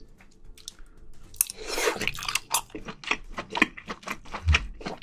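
Close-miked wet chewing of scallop meat in spicy sauce: a string of short smacks and clicks from the mouth, with a longer noisy bite about a second and a half in.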